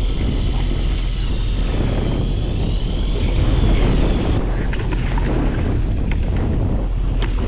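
Electric reel (Daiwa Leobritz 300J) winding in with a wavering motor whine that cuts off suddenly about four and a half seconds in. A few sharp clicks and knocks follow, all over a steady low rumble of wind and the boat.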